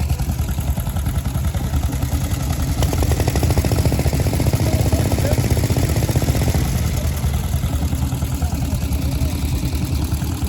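Veteran motorcycle engine running with a fast, even firing beat. The beat is loudest from about three to seven seconds in, as a machine sets off from the start line.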